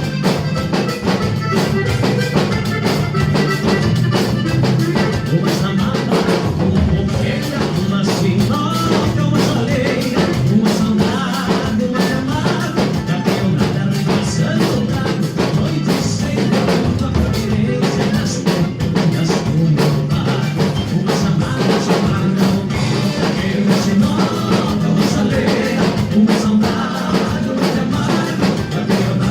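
A live band jamming with a drum kit keeping a steady beat, played without a sound check.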